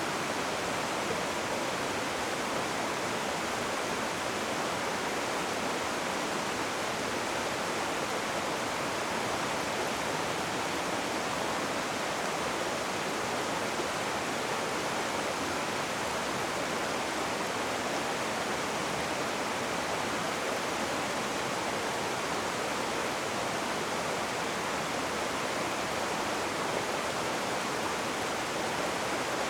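Rushing water, river or waterfall, a steady even rush without breaks or changes.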